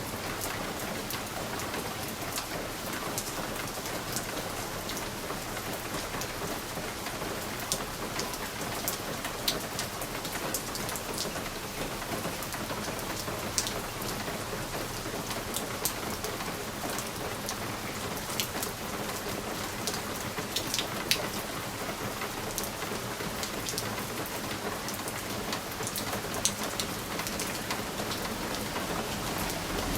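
Steady rain pattering on a window pane, a constant hiss with scattered sharp ticks of single drops striking the glass.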